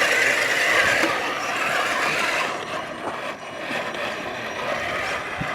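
Radio-controlled scale crawler truck's electric motor and gears whirring as it drives up the course, louder for the first couple of seconds, then easing off.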